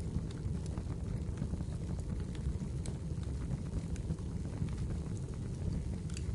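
Wood fire crackling: scattered sharp snaps and pops over a steady low rumble from the burning firewood.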